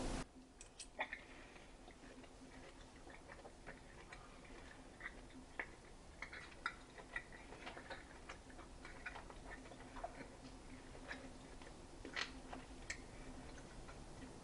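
Faint, irregular mouth clicks and smacks of a person chewing a bite of cooked steak, over a faint steady hum.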